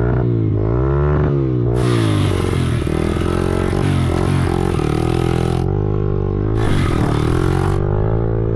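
Honda XR100's single-cylinder four-stroke engine running on choke just after a cold start, noisy, its revs rising and falling as the throttle is worked. About two seconds in a rougher, hissing noise joins it for a few seconds, then again briefly near the end.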